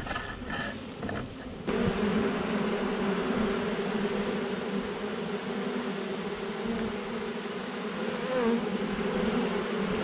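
A swarm of honey bees buzzing in flight, a dense steady hum that becomes abruptly louder about two seconds in.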